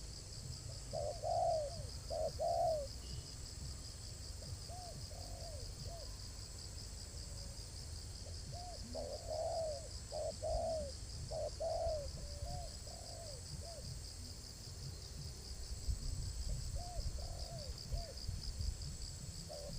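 Spotted dove cooing in short runs of several coos, with pauses of a few seconds between runs. A steady, fast, high pulsing trill runs underneath.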